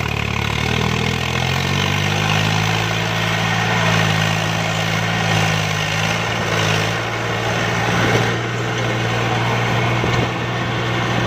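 Tractor engine running loud and steady. Its pitch shifts slightly in the first couple of seconds, then holds even.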